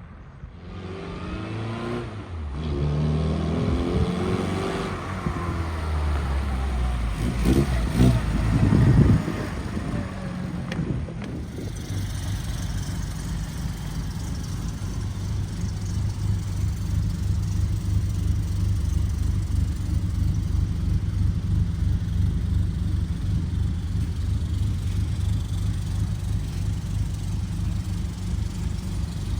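Austin-Morris Mini Clubman Estate's A-series four-cylinder engine running, with the revs blipped up and down several times, loudest a little before halfway. It then settles to a steady idle.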